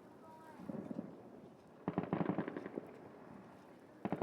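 New Year fireworks going off in clusters of rapid cracking pops, with the biggest volley about two seconds in and another starting near the end.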